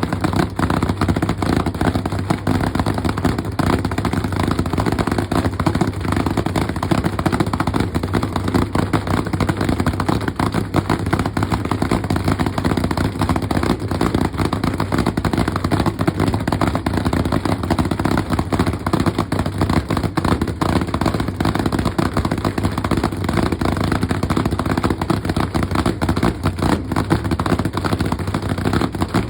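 Hemi V8 engine running at a steady idle, with a loud, rapid, even pulsing and no revving.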